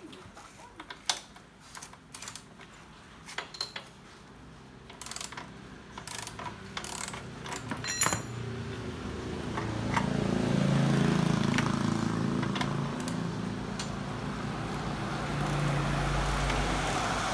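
Hand tools clinking and clicking on metal during work on a motorbike's chain and rear-wheel adjuster, with one louder ringing clink about eight seconds in. From about ten seconds a vehicle engine runs steadily, rising in level.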